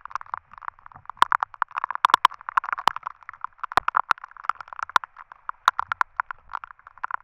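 Heavy rain drops striking the waterproof camera close to its microphone: a dense, irregular run of loud taps with a muffled tone.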